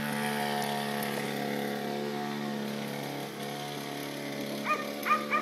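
Motorcycle engine running at a steady pitch, its note slowly getting a little quieter. A few short high-pitched calls come near the end.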